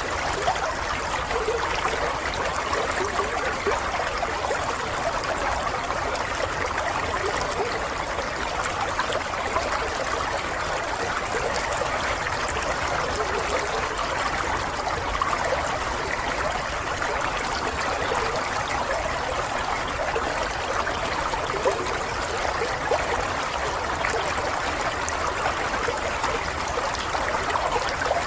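Running water flowing steadily and without a break.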